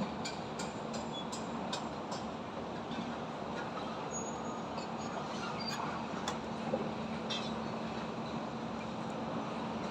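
Urban construction-site and highway traffic noise: a steady roar with a low steady hum, broken by scattered sharp clicks and knocks, several in the first couple of seconds and a few more about six to seven seconds in.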